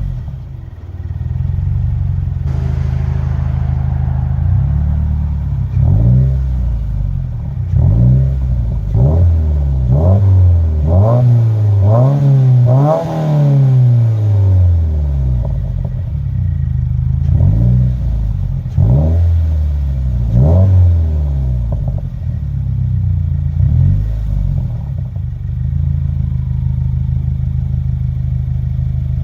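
2019 Subaru WRX's turbocharged 2.0-litre flat-four, breathing through an Invidia R400 cat-back exhaust with the intermediate resonator deleted, idling while stationary. About six seconds in it is blipped through a series of quick revs that rise and fall, the longest near the middle, then it settles back to a steady idle for the last several seconds.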